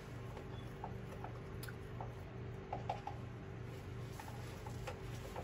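Mouth sounds of people eating deep-fried chicken and vegetables: soft chewing with small wet clicks and smacks scattered through, over a low steady hum.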